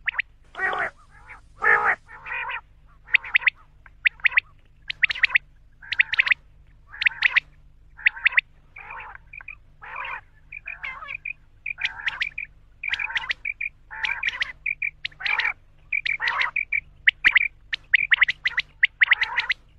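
Quail calling over and over in short, sharp notes, roughly one or two calls a second, with two longer, harsher calls about a second in. A faint steady hum lies underneath.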